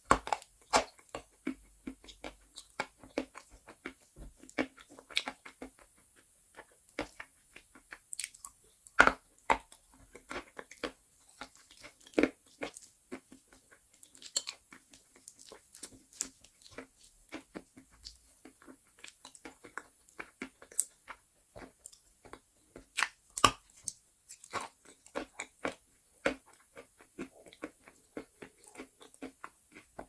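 Chalk coated in black paste being bitten and chewed: irregular dry crunches and crumbling crackles, with the sharpest bites about nine and twenty-three seconds in.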